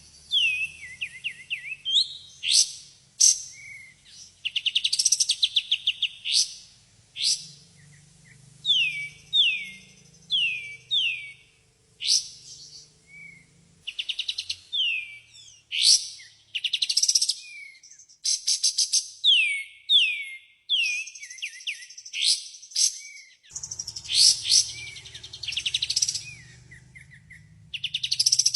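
Kapas tembak songbird singing a lure song: quick runs of downward-sweeping whistled chirps alternate with fast rattling trills, phrase after phrase with short gaps.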